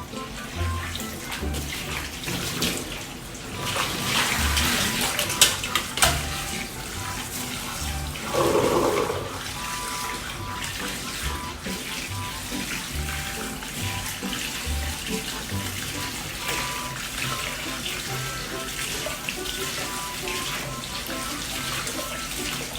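Water running and splashing steadily, louder for a few seconds near the start and in a brief burst about eight seconds in, under background music with a steady beat.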